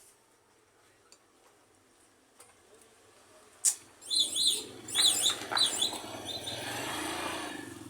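A single sharp click, then a bird chirping in several quick high notes, followed by a broad rushing noise that swells and fades near the end.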